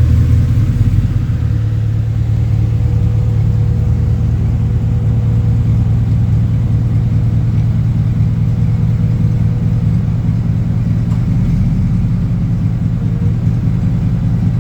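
4.8-litre LS V8 idling steadily through a newly fitted dual exhaust with Thrush mufflers.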